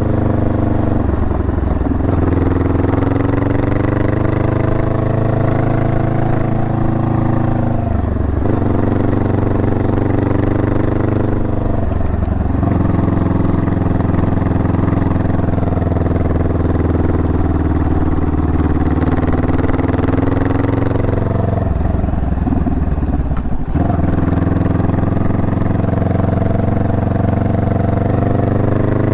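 Honda Rebel 500's parallel-twin engine under way, its pitch climbing as the bike accelerates. It drops away briefly at gear changes about a second, eight and twelve seconds in, then holds fairly steady before dipping again a little past twenty seconds and climbing once more.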